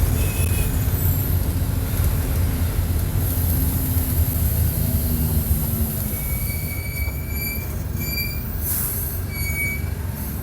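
Mercedes-Benz OF-1722 bus's diesel engine running, easing off from high revs as the bus slows. About six seconds in, high-pitched brake squeals sound three times.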